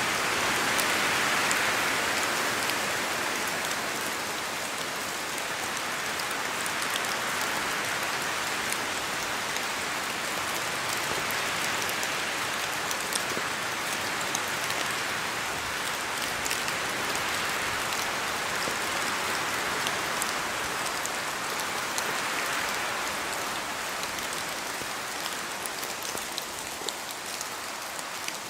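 Steady rain falling on a forest, with many small drops pattering on leaves; the rush swells and eases slowly, as with gusts of wind through the trees.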